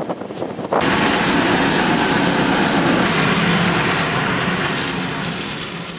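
Rail noise from a moving steam-hauled train: wheels click over rail joints at first, then after an abrupt change a loud, steady rushing train noise slowly fades.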